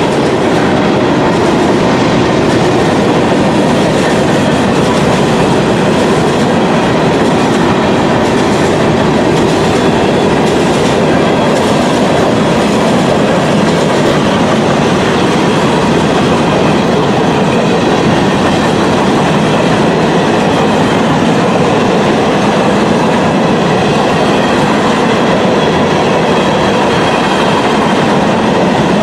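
Union Pacific train's cars rolling past on the rails, a loud, steady rumble with wheel clatter.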